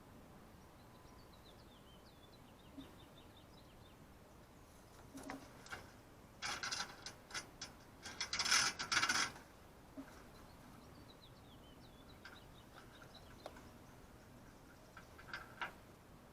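A few seconds of rapid rattling and clicking, loudest about eight to nine seconds in, with faint bird chirps before and after.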